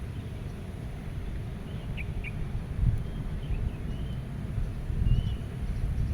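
Wind in a meadow, heard mostly as a low, gusty rumble that swells twice, with a few faint bird chirps and short warbling calls over it.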